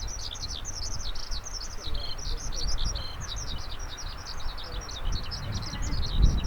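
A songbird singing a long, rapid, unbroken run of high twittering chirps and trills, over a low rumble that grows louder near the end.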